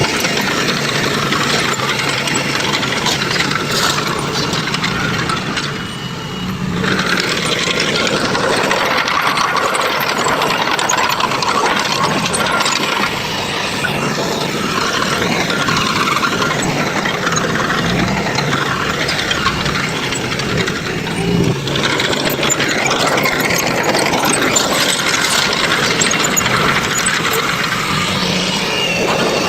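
Heavy construction machinery engine running, with rattling; the sound dips briefly twice.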